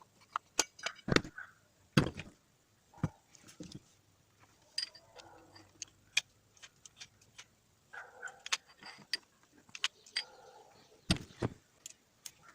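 Irregular clicks, taps and knocks of hand tools and metal parts being handled while a starter motor is worked on, with louder knocks about a second in, about two seconds in and near the end.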